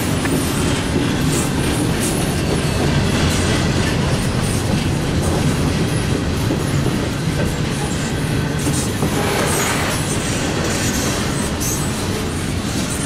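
Double-stack intermodal container train passing at close range: the steady rumble of its well cars' steel wheels rolling on the rails, with a brief brighter stretch of wheel noise about nine seconds in.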